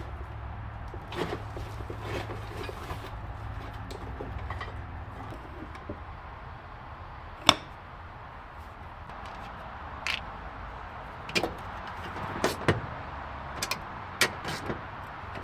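Scattered sharp knocks and clicks, a dozen or so at uneven intervals, the loudest about seven and a half seconds in. A low hum underneath stops about five seconds in.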